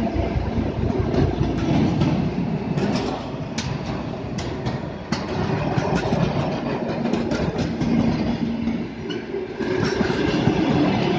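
A work train of rail-mounted track maintenance machines, hauled by a ChME3 diesel shunting locomotive, rolling past with a steady rumble. About three seconds in comes a run of sharp wheel clicks over rail joints.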